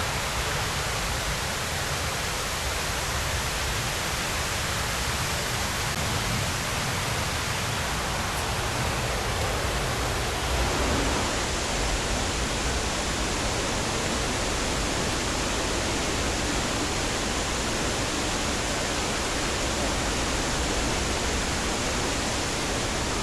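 Steady rushing of falling water from a waterfall, an even roar with no let-up.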